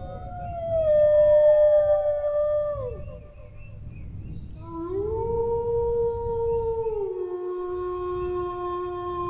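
Dog howling: one long howl that slides down and breaks off about three seconds in, then, after a short pause, a second long howl that rises, holds, and drops to a lower note partway through, still going at the end.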